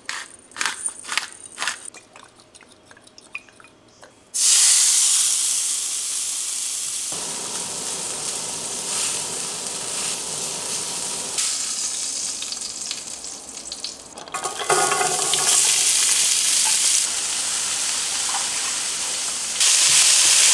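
A hand pepper grinder being cranked in short clicks, then after a brief pause a loud steady sizzle starts suddenly as a venison roast sears in a hot skillet. Near the end it becomes diced onion, carrot and celery sizzling in a cast-iron skillet, stirred with a wooden spoon.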